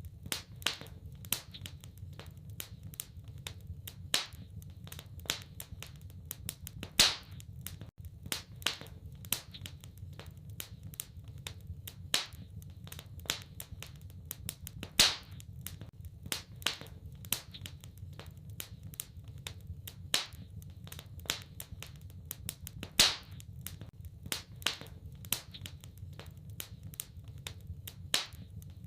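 Wood fire crackling in a fireplace: a constant patter of small crackles, with louder pops about every four seconds, over a steady low rumble.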